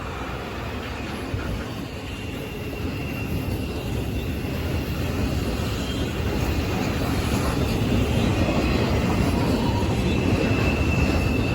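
Train rumbling, growing steadily louder as it approaches, with a faint high whine coming and going above the rumble.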